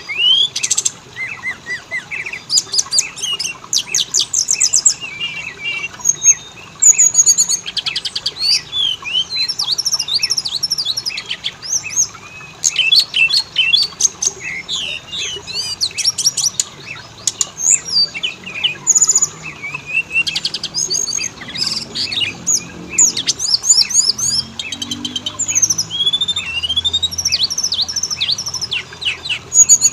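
Oriental magpie-robin (kacer) singing a long, varied song of clear whistles, rising and falling slurs and rapid trills, phrase after phrase with only brief pauses. This is lure song, played to captive magpie-robins to set them singing.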